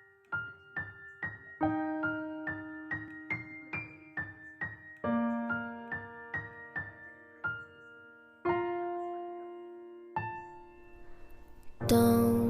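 Slow, sad piano introduction of a song: single high notes struck about twice a second over held bass notes that change every couple of seconds. Near the end a fuller, louder accompaniment comes in.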